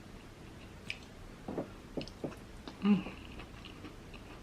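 Close-miked chewing with a few wet lip smacks and mouth clicks, spaced apart, the loudest about three seconds in.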